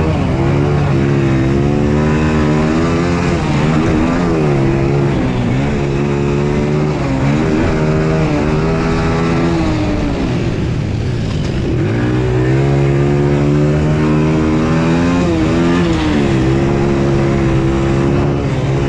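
Quad (ATV) engine being ridden hard around a dirt track, its note climbing and falling back again every couple of seconds as the throttle is worked.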